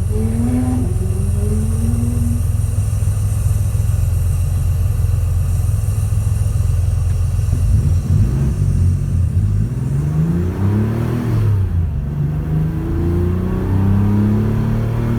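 Porsche 911 rally car's flat-six engine running hard. It holds a steady, deep note for the first half, then rises and falls in pitch several times as it revs up and drops back through gear changes.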